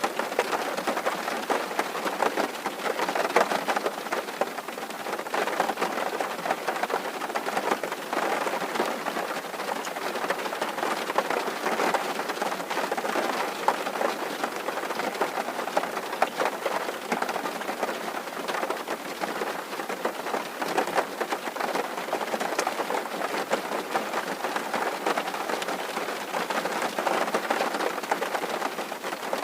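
Rain falling steadily on a tin roof: a dense, even patter of countless small drop impacts.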